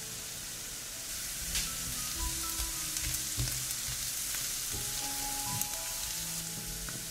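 Chopped onion sizzling in butter in a frying pan, with several sharp clicks of a utensil stirring it. Soft background music plays underneath.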